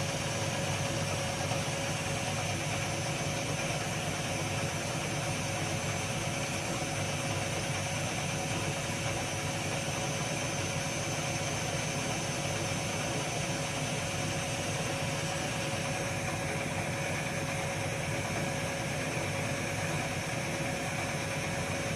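Zanussi FL904NN washing machine spinning its drum with the rinse water still in it, the motor running steadily. This is its rinse that spins without draining the water, to wash out the detergent; the sound shifts slightly about sixteen seconds in.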